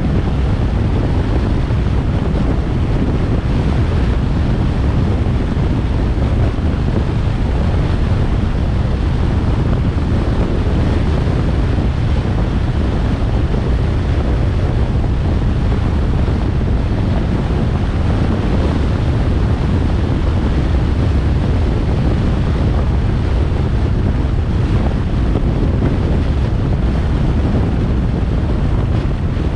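Steady low wind rumble buffeting the microphone of a moving car, blended with road noise, unchanging throughout.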